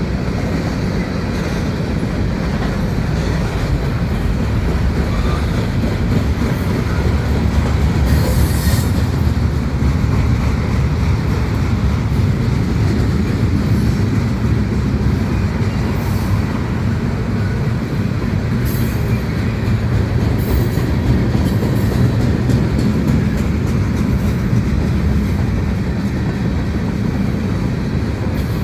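Freight cars of a manifest train rolling past with a steady loud rumble of steel wheels on rail, broken by a few brief high-pitched wheel squeals.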